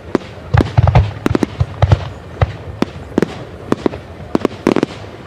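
Aerial fireworks display: a rapid, irregular run of bangs and sharp crackling reports. There is a dense cluster about a second in and another just before the end.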